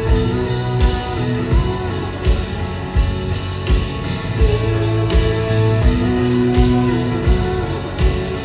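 Live rock band playing over a steady drum beat, with guitars and singing, recorded from the audience.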